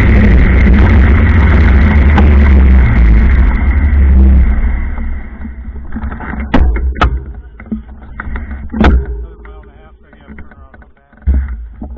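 Loud wind and road rumble on the microphone while riding a bike, dying down about five seconds in. Several sharp clicks and knocks follow.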